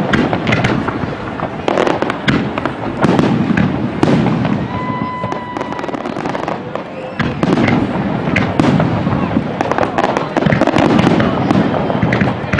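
Fireworks display: rapid, dense shell bursts and crackling one after another, with a steady whistle lasting about a second and a half midway.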